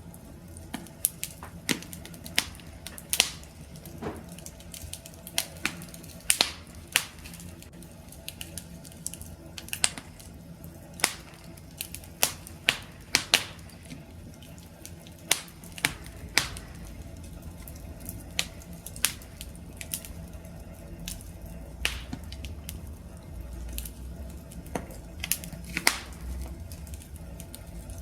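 Campfire crackling: irregular sharp pops and snaps of burning wood over a steady low hiss of flame, with a low rumble coming in about halfway through.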